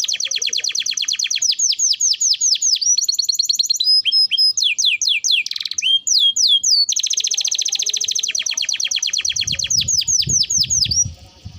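Domestic canary singing: long rapid rolls of quick, repeated down-sweeping notes, broken in the middle by a slower run of separate sweeping whistles, then another long roll.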